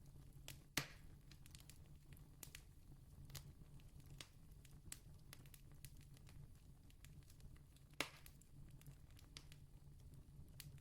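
Faint wood campfire crackling, with scattered small snaps and two louder pops, one near the start and one about eight seconds in.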